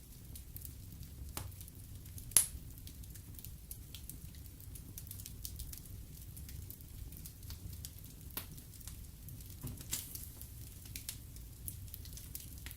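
Wood fire burning in a fireplace: a steady low rumble of flames with scattered crackles and one sharp, loud pop a couple of seconds in.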